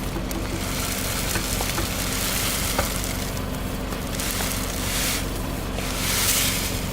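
A car's engine running steadily, with crackling and crunching as things are crushed under its tyre; the hissing crackle swells several times.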